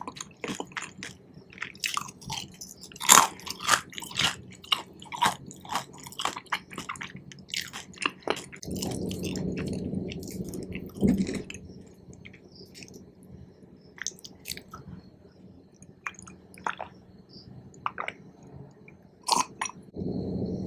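Close-miked chewing of Korean cheese corn: irregular wet smacks, squishes and clicks of the mouth working the cheesy corn. A low steady background noise comes in for about three seconds in the middle and again near the end.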